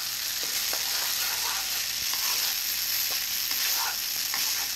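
Fried rice sizzling in a hot nonstick wok while a spatula stirs it around, with faint scrapes every so often.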